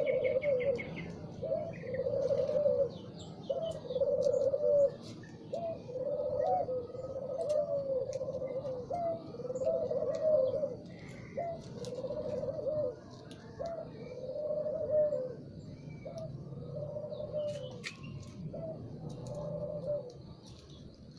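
Spotted dove cooing: a low, repeated phrase of a short rising note followed by a longer note, about once every second or so, which stops near the end. Faint chirps of small birds sound above it, with a short trill near the start.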